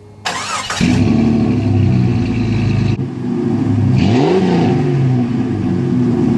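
Jeep Cherokee's AMC 4.0-litre straight-six cranking briefly and catching within about half a second, then idling, with one quick rev about four seconds in.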